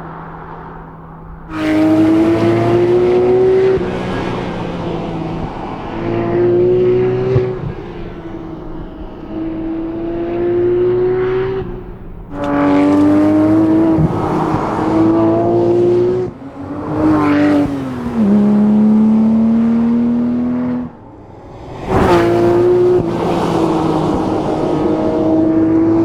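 Porsche 911 R's naturally aspirated 4.0-litre flat-six engine pulling hard, its pitch climbing in repeated bursts of throttle. The level drops briefly between pulls as the driver lifts off or shifts gear. Near the end of the third quarter the pitch falls and settles lower before climbing again.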